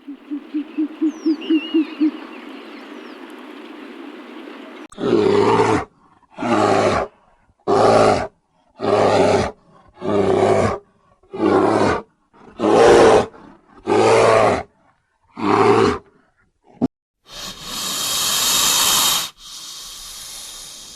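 Animal sounds: a quick run of short pulsed calls, then an animal calling nine times in a row, each call under a second long and about a second apart. A loud burst of noise near the end.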